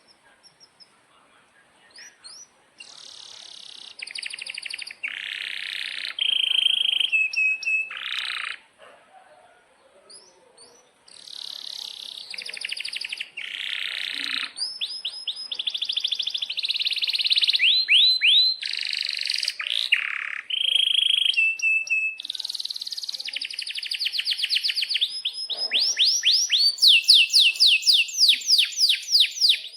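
Domestic canary singing a long, loud song of rapid trills and chirps, with a short pause about nine seconds in and a fast trill of repeated sweeping notes near the end.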